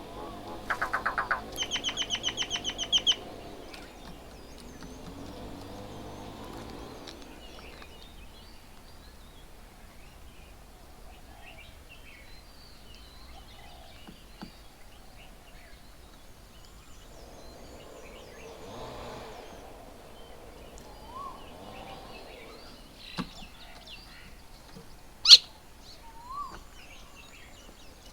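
Birds calling: a fast chattering run of notes in the first three seconds, then scattered chirps and short rising whistles, with one sharp, loud call about 25 seconds in.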